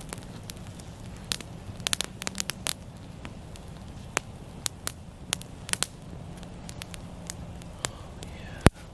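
Wood campfire of dry pine crackling, with sharp irregular pops and snaps over a steady low background; one louder snap comes near the end.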